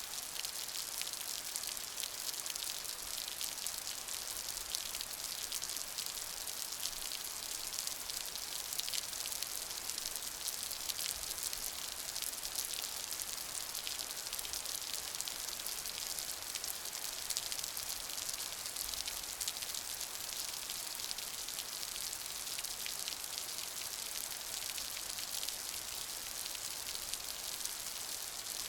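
Steady rain falling, a dense hiss of countless drops pattering on a surface, even in level throughout.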